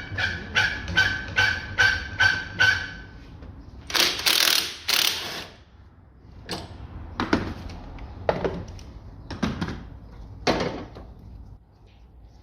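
Bolts on a Ford Focus engine mount being undone with a tool: a run of rhythmic mechanical clicks, about two and a half a second, over a steady high tone. Then comes a loud rattling burst and several separate knocks as the metal mount is worked free.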